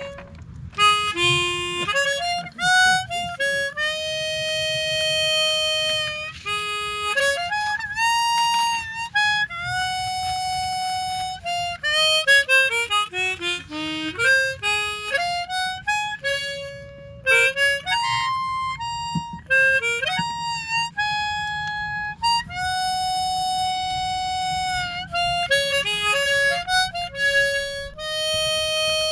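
Harmonica played solo: a melody of single held notes, with a quick falling run of short notes about halfway through.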